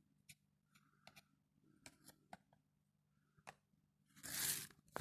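Hand-handling noise while working at a bench: scattered light clicks and taps, then a short loud rustle about four seconds in.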